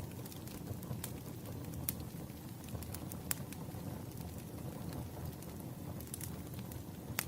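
Firewood burning: a steady low rush of the fire with irregular sharp crackles and pops, the loudest pop near the end.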